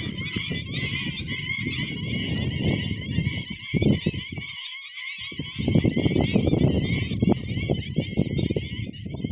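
Bird calls: a continuous high twittering chatter, with louder, lower, rough honk-like sounds coming and going and a brief gap near the middle.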